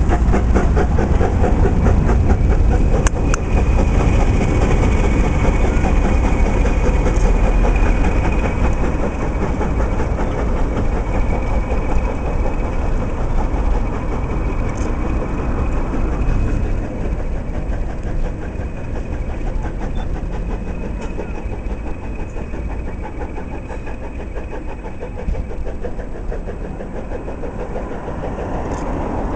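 Diesel train engine running with a rapid, steady throb, a little quieter in the second half.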